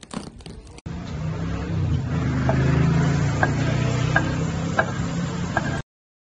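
Chopped onions sizzling in oil in a frying pan as a wooden spatula stirs them, over a steady low hum, with a few short high blips; it cuts off suddenly near the end. A few light handling clicks come just before it starts.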